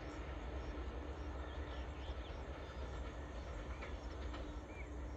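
Low, steady rumble of a distant train. Birds chirp several times over it.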